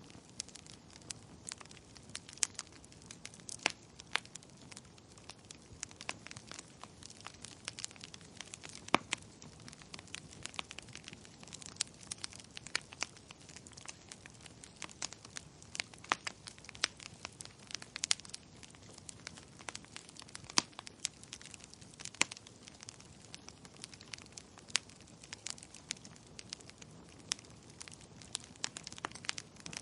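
Wood fire burning in a fireplace: irregular sharp pops and crackles, several a second, over a low steady hiss.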